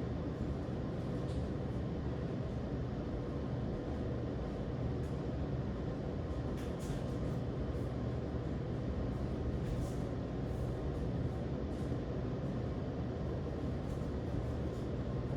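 Thunderstorm ambience: a steady low rumble of wind and rain, with faint scattered ticks.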